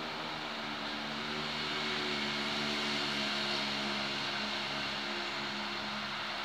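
A train running out of sight: a steady low engine hum under a rush of noise that swells to its loudest about halfway through and eases a little toward the end.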